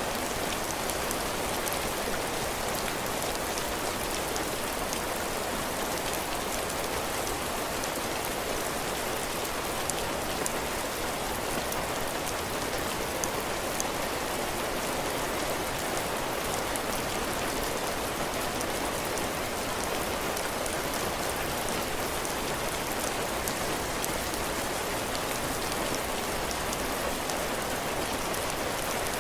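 Heavy rain falling steadily on a cabin porch, its roof and the ground, a dense even hiss with scattered individual drop taps.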